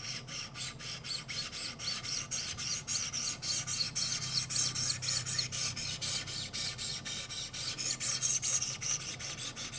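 1000-grit stones of a Wicked Edge guided sharpener rasping along an S90V steel knife edge in quick, even back-and-forth strokes, about four a second.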